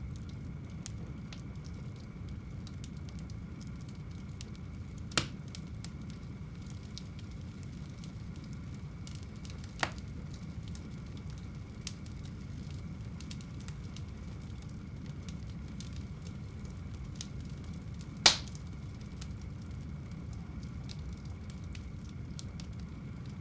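Fire burning in a home fireplace: a steady low rumble with frequent small crackles, and three louder pops, the loudest about eighteen seconds in.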